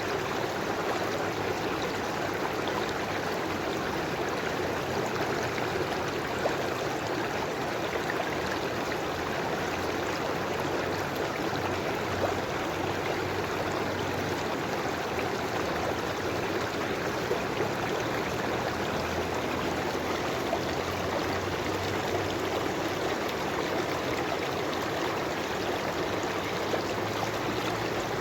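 A river flowing, a steady rush of water with small splashes and trickles over it.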